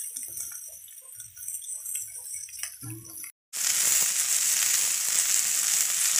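Food frying in oil on an iron griddle: a soft sizzle with small crackles from fish steaks. About three and a half seconds in the sound drops out briefly at a cut, then a louder, steady sizzle of another batch frying.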